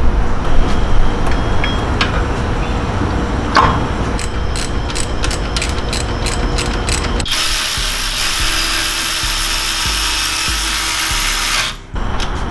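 Ratchet wrench clicking in a run of quick, even clicks while the braces are bolted back on. Then a steady hiss lasts about four seconds and cuts off suddenly.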